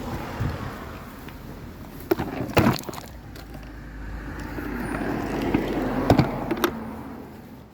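Henry vacuum cleaner running, its suction noise rising and falling as the nozzle works over the car, with a few sharp knocks of the nozzle against hard surfaces.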